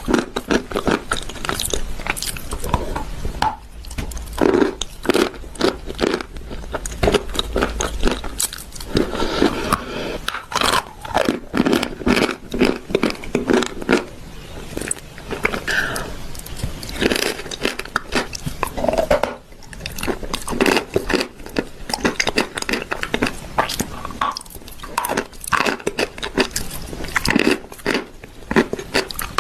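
Close-miked chewing and crunching of chalk mixed with paste, a dense run of crisp, irregular crackles from the bites.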